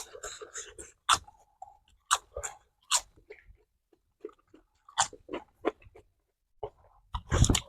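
Close-miked chewing with crisp crunches of roasted cicadas and raw vegetables, a sharp crunch about once a second and a louder run of crunching near the end.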